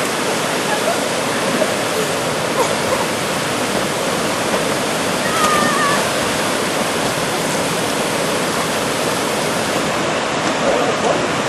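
Steady rushing water of a waterfall, with a brief, faint high call about five seconds in.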